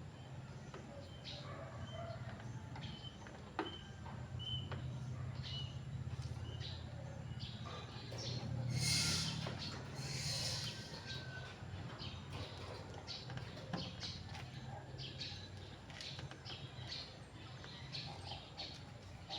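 Small birds chirping on and off over a steady low hum, with two brief rustling noises near the middle.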